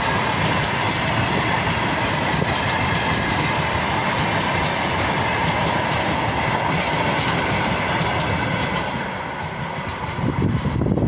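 Freight train of tank wagons rolling past, the wheels clacking over rail joints in a steady loud stream. The sound eases briefly near the end.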